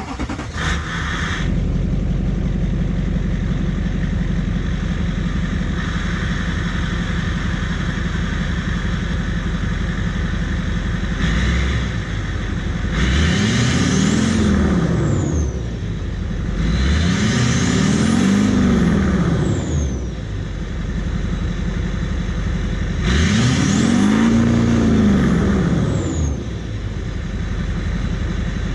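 LBZ Duramax 6.6-litre V8 turbodiesel running through a 3.5-inch straight pipe with a test pipe in place of the catalytic converter: it idles, then is revved three times, the pitch climbing and falling each time, with a turbo whistle rising and falling over each rev and a fourth rev starting at the very end.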